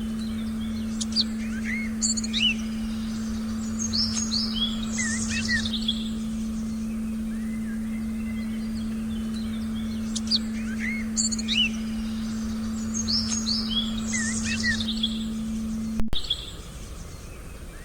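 Songbirds chirping in short whistled and rising calls, in two bursts of song, over a steady low electronic tone. Near the end a click cuts the tone off suddenly, leaving only faint background.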